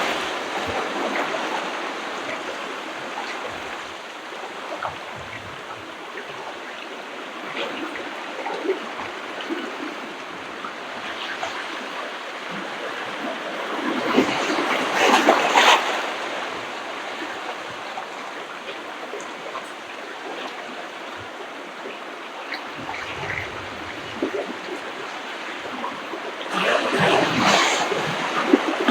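Ocean waves breaking on the shore: a steady wash of surf with two louder surges, about halfway through and again near the end.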